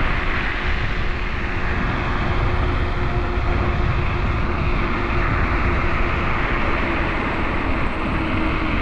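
Wind rushing over the microphone and road noise from a Teverun Fighter Supreme Ultra electric scooter riding along, with a steady thin whine underneath.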